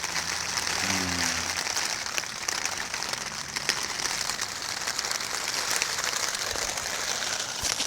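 Heavy rain falling on the fort's roof covering, a steady hiss full of small drop ticks.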